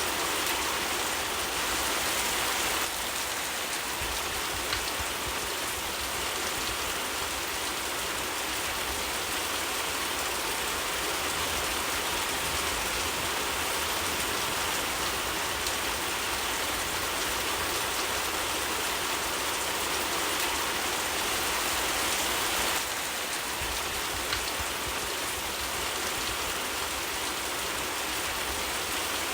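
Steady rain falling, a dense even hiss of drops on surfaces, stepping down abruptly in level about three seconds in and again about three-quarters of the way through.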